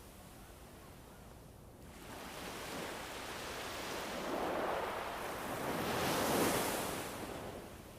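Ambient soundscape of rushing wind or surf-like noise that builds from about two seconds in, swells to two peaks, and fades near the end.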